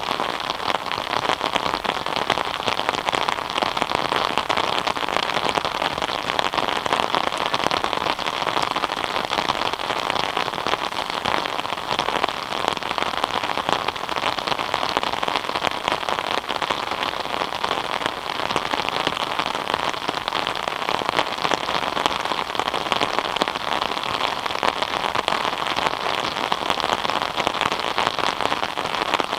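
Steady rain falling, a dense, even patter of many drops on surfaces.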